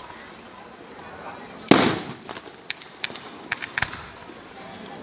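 Fireworks: one loud shell burst about two seconds in, its boom fading away, followed by a string of short sharp pops.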